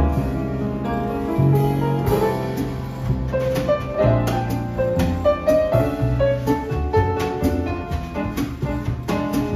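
Piano trio playing a bossa nova: the piano carries the melody over a string bass line, with light drum and cymbal strokes keeping time.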